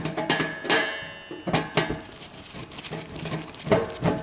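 Irregular clanks and knocks of metal as a dishwasher's bottom kick plate is worked off, one strike ringing briefly near the first second.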